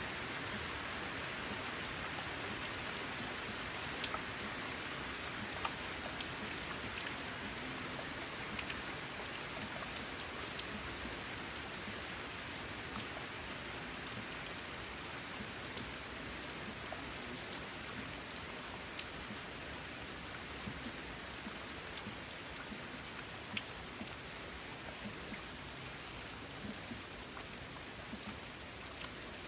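Steady rain falling on a corrugated zinc sheet roof: a dense, even hiss dotted with many sharper individual drop taps, easing slightly toward the end.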